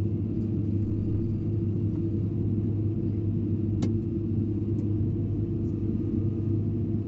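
Hydraulic excavator's diesel engine running steadily with a low drone, with one sharp click a little under four seconds in.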